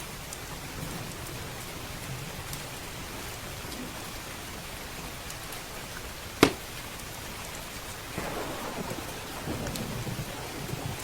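Steady heavy rain with a thunderstorm. A single loud sharp crack comes about six seconds in, and rolling thunder builds from about eight seconds in. Faint crackles of a wood fire sit under the rain.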